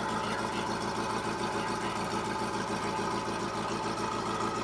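Ferrari F40's twin-turbocharged V8 idling steadily, with an even, rapid pulse.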